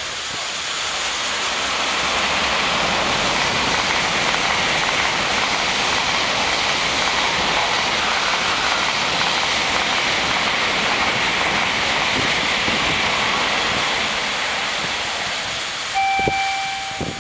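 Shinkansen bullet train running past on the tracks: a loud, steady rush of wheel and air noise. Near the end it is joined by a brief steady tone.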